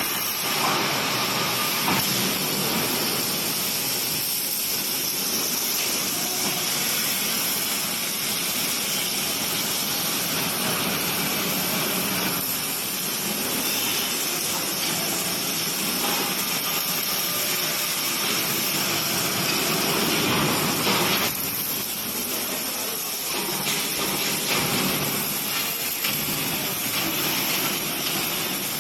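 Automated robotic welding machine running: a steady hissing noise that shifts in loudness and character every several seconds.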